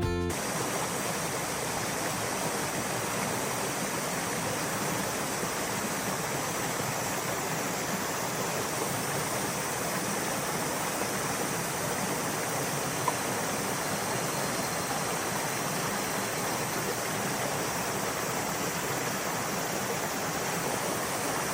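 Minoo Falls waterfall pouring, a steady, unbroken rush of falling water.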